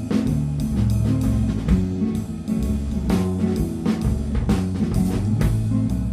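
Instrumental rock band playing live: electric guitar over sustained bass notes and a drum kit keeping a steady beat, heard as a rough mix of drums and scratch tracks.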